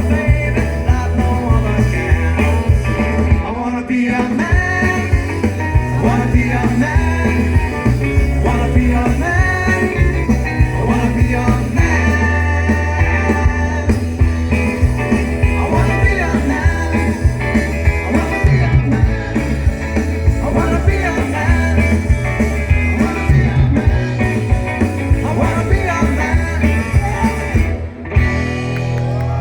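Live rock and roll band playing with a lead vocal over electric guitar, bass and drums.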